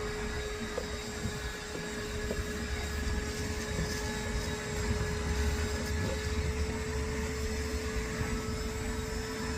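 Vacuum cleaner running steadily, its motor holding one even whine over a rushing of air.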